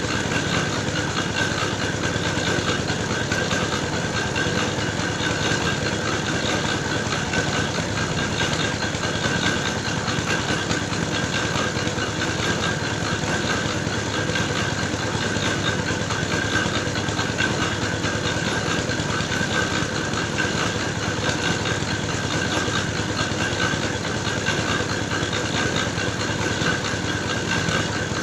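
Engine-driven soil grinding mill running steadily, churning clay for red-brick mix, with a steady high whine over the engine noise.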